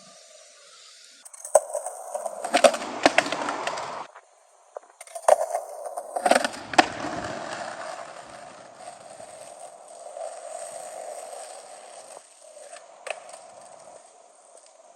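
Skateboard on pavement: two loud bursts of sharp clacks and grinding, about a second in and again about five seconds in, as the board is popped and slams down, followed by the wheels rolling on and fading.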